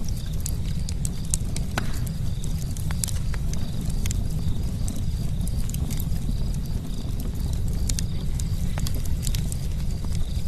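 Campfire burning: frequent irregular sharp pops and snaps of the burning wood over a steady low rumble of the flames.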